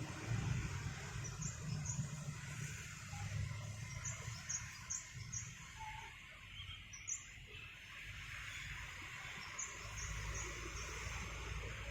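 Small bird chirping, short high notes in quick pairs and triplets repeated every second or so, over a low rumble that fades midway and returns near the end.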